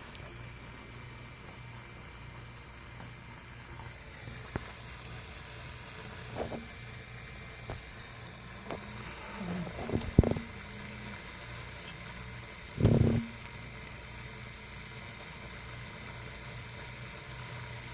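Small electric pump running steadily with a low hum while it pumps out sewage water. A few short knocks break in over it, the loudest about thirteen seconds in.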